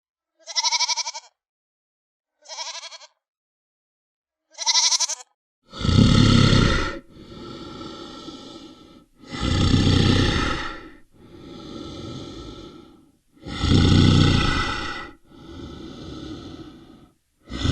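Sheep bleating: three short, high bleats in the first five seconds. From about six seconds in, these give way to a louder, rasping animal call. It repeats as alternating loud and softer breaths, each lasting about a second and a half.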